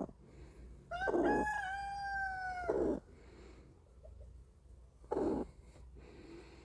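A rooster crows once, a single drawn-out call of about two seconds starting about a second in. A short, noisy burst, likely from the hens, comes about five seconds in.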